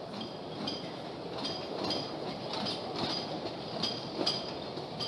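Narrow-gauge cave tourist train running along its track: a steady rumble of the cars, with short, high metallic squeaks and clinks at uneven intervals, the loudest about four seconds in.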